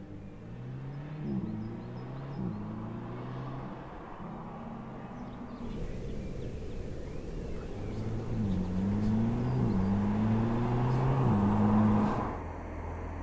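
Mercedes-Benz SLC 300's turbocharged four-cylinder engine accelerating hard, its pitch climbing and falling back with each upshift, several times over. It grows louder and then breaks off suddenly near the end, leaving a low steady hum.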